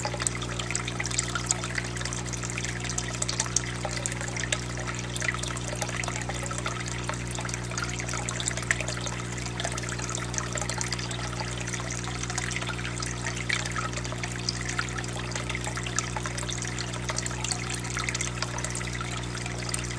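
Flame burning in a tornado-style tabletop fire pit: a continuous irregular crackle and flutter over a steady low hum.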